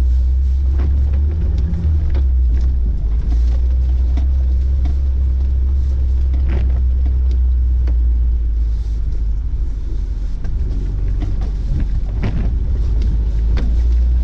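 Suzuki Vitara 4x4 creeping slowly along a rutted dirt track: a steady low engine and road rumble with scattered short knocks and rattles.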